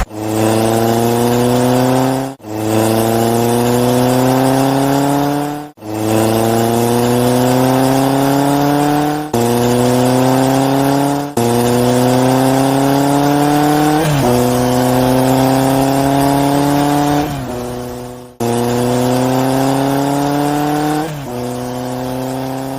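Race car engine sound effect, revving up through the gears: the pitch climbs steadily, drops back at each shift and climbs again, about eight times, with a few brief cut-outs between runs.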